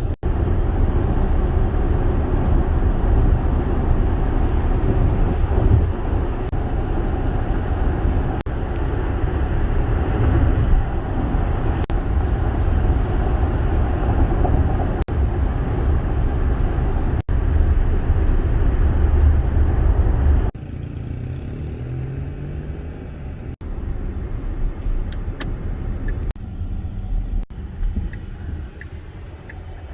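Electric Tesla Model X on the road: steady tyre and wind noise, heaviest in the low end. About two-thirds of the way through it drops abruptly to a quieter, thinner hum.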